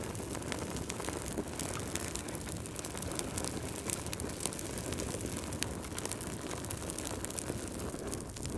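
Crackling wood fire: a steady low rumble of flames with frequent small sharp pops and snaps.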